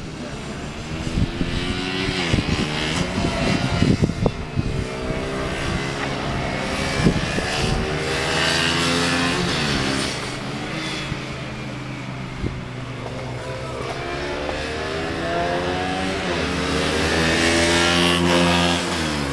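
KTM 125 Duke's single-cylinder four-stroke engine being ridden hard round a tight track, its pitch climbing under throttle and dropping again into the corners several times over. There are a few sharp cracks in the first few seconds, and near the end a long fall in pitch as the bike slows.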